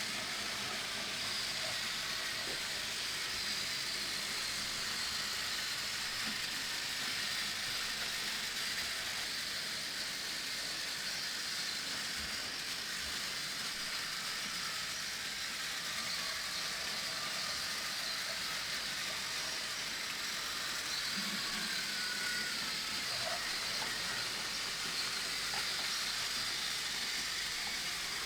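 Battery-powered Plarail toy trains running on plastic track: a steady motor whir and running noise with a faint high whine drifting in pitch.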